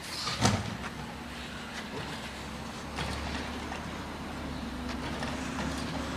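Garbage truck's engine running steadily, with one sharp clank about half a second in and a few lighter knocks after it while it collects yard waste.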